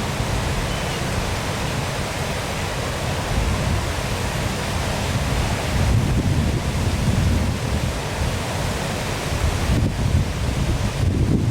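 Waterfall rushing, a steady hiss of falling water with no break, overlaid by irregular low rumbles of wind buffeting the microphone.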